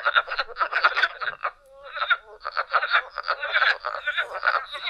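A chorus of frogs calling together: a dense run of rapid pulsed calls, with a brief lull about one and a half seconds in.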